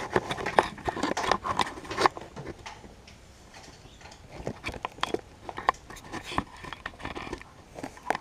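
Irregular small clicks, taps and rubbing as a tiny camera and its mount are handled and fitted in place, with a quieter lull near the middle.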